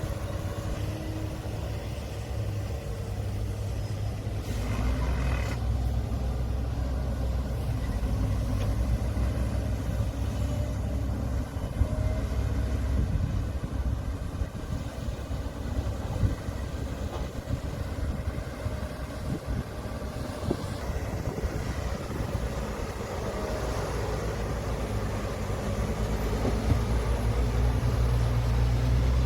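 Diesel engines of heavy earthmoving machinery (excavators and a bulldozer) running under work with a steady low rumble, with a brief noisier burst about five seconds in.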